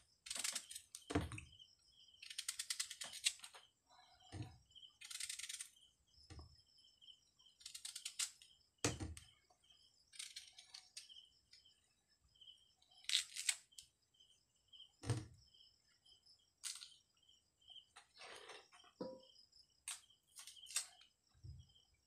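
Crunching bites and chewing of unripe Indian mango close to the microphone, in short sharp bursts every second or two, with wet mouth sounds. A faint high chirp repeats about once a second behind them.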